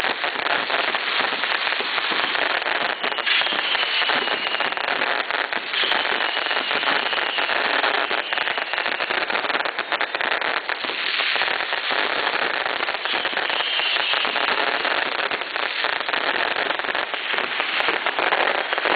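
A large festival bonfire burning, with a dense, continuous crackle much like heavy rain. Faint high falling whistles come through a few times.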